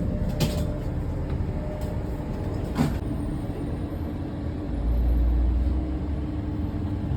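City bus running with a steady hum and low rumble; the rumble swells deeper about five seconds in. Two short knocks sound, one about half a second in and one just before three seconds.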